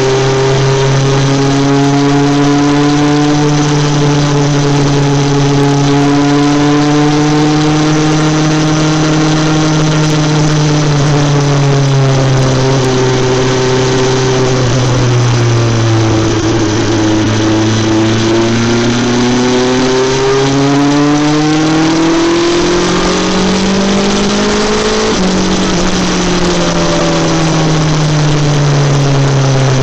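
BMW S 1000 XR's inline-four engine through an Akrapovic exhaust, running steadily with the revs easing down, then climbing smoothly for several seconds, dropping suddenly near the end and falling away.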